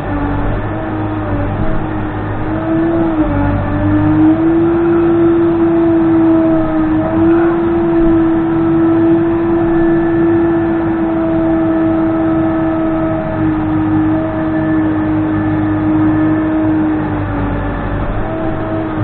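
Case 580N backhoe loader's diesel engine and hydraulics working. It runs steadily, its pitch rising a little a few seconds in, holding, and easing back near the end as the machine takes and sheds load.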